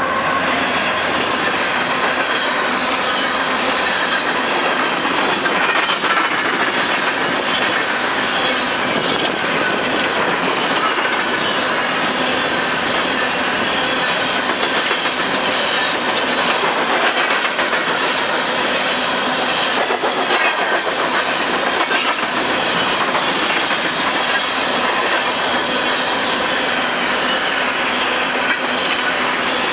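Freight train of open-top coal cars rolling past at speed: a steady roar of steel wheels on rail, with a rapid clickety-clack as the wheels run over rail joints.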